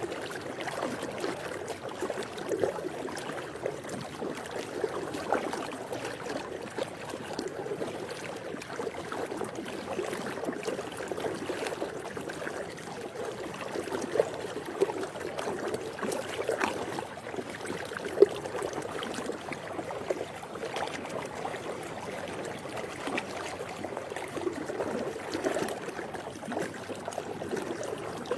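Swimming pool water lapping and trickling steadily, with small irregular splashes and gurgles. One sharp tap stands out about 18 seconds in.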